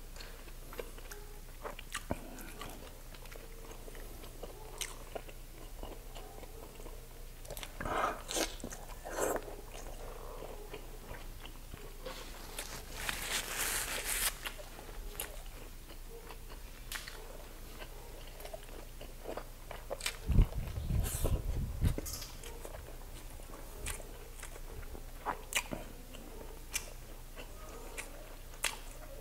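Close-up mukbang eating: wet chewing and biting of grilled skewered pork and chicken street food dipped in vinegar, with many sharp mouth clicks. About halfway through a paper tissue rustles as the mouth is wiped, and a few loud low thumps come about twenty seconds in.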